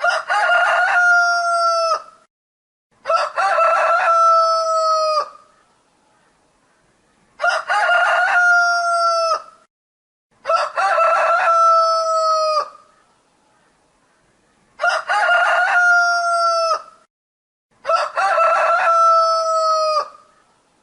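A rooster crowing: the same cock-a-doodle-doo repeated six times in three pairs, each crow about two seconds long, with short quiet gaps between.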